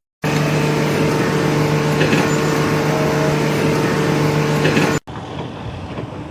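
Steady mechanical hum of an engine or motor running at constant speed, with a noisy wash over it. It cuts off abruptly about five seconds in and gives way to a quieter noisy stretch that also stops suddenly.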